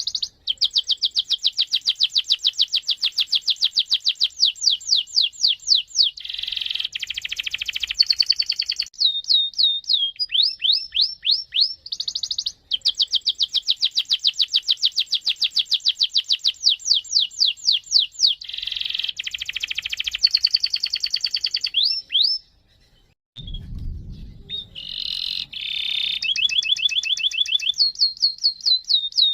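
Domestic canary singing long rolls: rapid trains of repeated high sweeping notes, several per second, broken by a few short pauses. A brief low thump comes a little over three-quarters of the way through.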